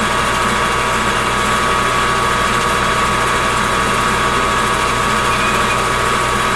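Metal lathe running steadily, with a small boring bar facing across the bottom of a bored pocket to take off the small centre nub left by the end mill. It is a constant whine and hum that does not change.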